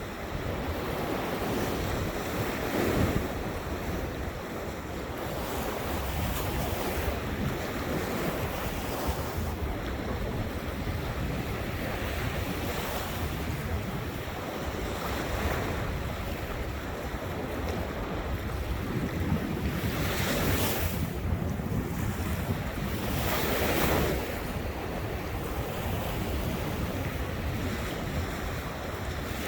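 Ocean surf: waves breaking and washing up on the shore, with several louder wave surges (the strongest about 20 and 24 seconds in), and wind buffeting the microphone.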